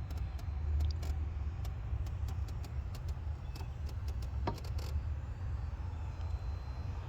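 2014 Audi Q5's 2.0-litre turbocharged four-cylinder engine idling, a steady low rumble with scattered light ticks at irregular spacing.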